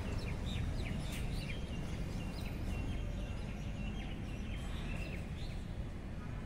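Birds calling, many short high chirps repeating, over a steady low rumble of outdoor background noise.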